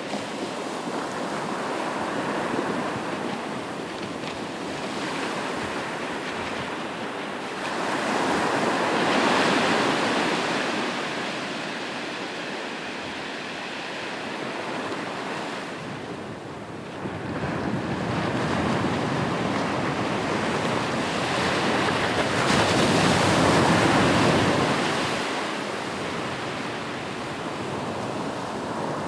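Sea waves washing onto a shore, the surf swelling and easing in slow surges, two larger waves building about a third of the way in and again near the end.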